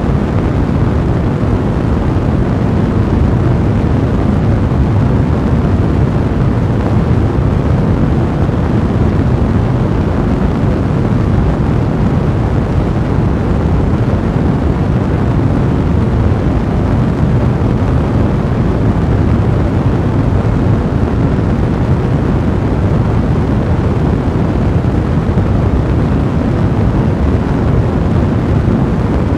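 A fire blazing: a steady, dense low rumble of burning, with no separate crackles or pops standing out.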